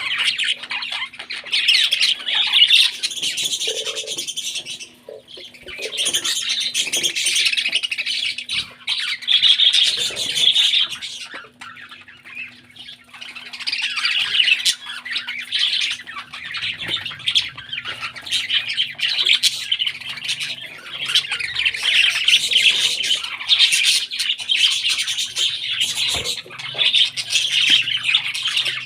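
Parrot chicks giving harsh, rapid begging squawks in long bouts while being fed, with brief lulls between bouts.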